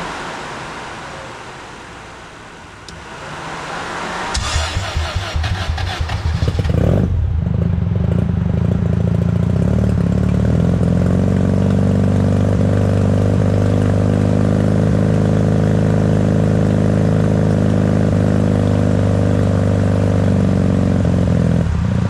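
1979 Mazda 13B twin-rotor rotary engine starting up about four seconds in, running choppily for a few seconds, then settling into a steady run. A fading whir fills the first few seconds before it.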